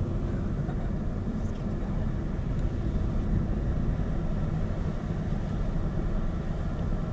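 Steady low rumble of a running vehicle, even throughout with no sudden sounds.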